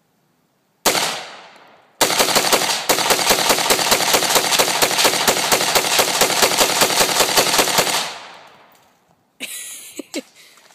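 AR-15 rifle firing: a single shot, then a long rapid string of shots at about six a second for about six seconds. A short, different sound follows near the end.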